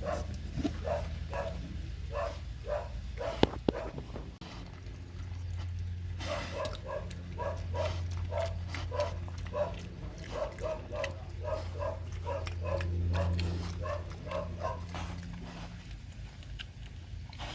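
Pig grunting over and over in short grunts, about two a second, over a steady low hum.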